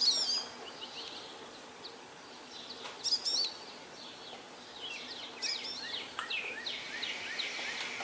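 Wild songbirds chirping and singing outdoors: several short phrases of quick rising and falling notes, with quieter gaps between them.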